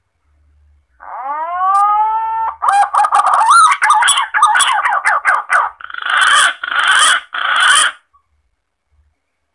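Green pigeon (punai) lure call: a rising whistled note about a second in, then a fast run of warbling whistles, ending in three rougher, broader notes.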